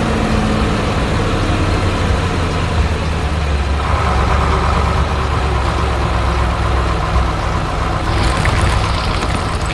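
Heavy truck engine running steadily at idle, the engine sound of a cement mixer truck; a hissing noise joins about eight seconds in.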